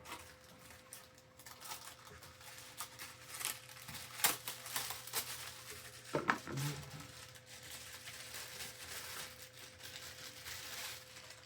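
Crinkling, rustling handling noise with scattered small clicks, and two sharp knocks about four and six seconds in.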